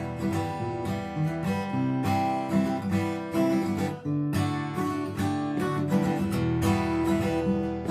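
Acoustic guitar strummed in steady chords, played as an instrumental passage with no singing.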